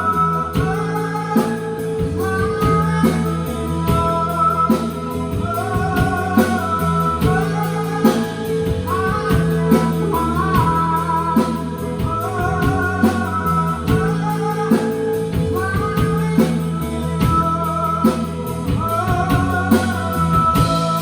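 Rock band playing live: drum kit, bass and guitars, with a sung melody over them.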